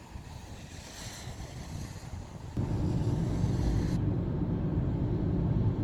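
Wind on the microphone, then about two and a half seconds in, a sudden switch to a steady, low engine rumble.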